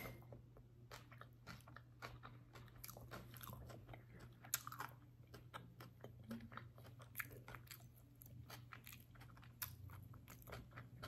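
Quiet, close-up chewing of a vegan pulled pork sandwich: scattered small mouth clicks and smacks at an uneven pace.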